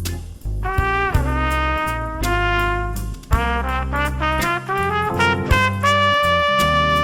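Jazz instrumental with a trumpet playing the melody over bass and drums, settling into a long held note near the end.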